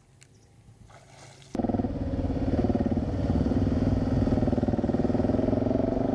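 Motorcycle engine running steadily at an even pitch, cutting in suddenly about a second and a half in after a quiet moment with a few faint ticks.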